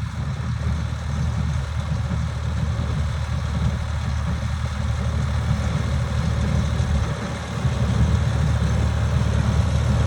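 Classic tractor engine running steadily with a low, even rumble, growing a little louder about three quarters of the way through.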